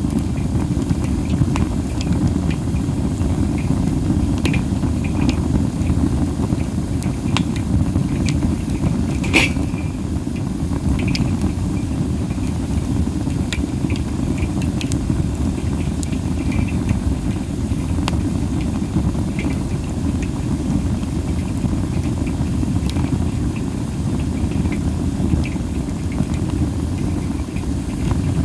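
Wood fire of masaki (Japanese spindle tree) branches burning, hissing under a steady low rumble of wind, with scattered pops and crackles; the loudest pop comes about nine seconds in.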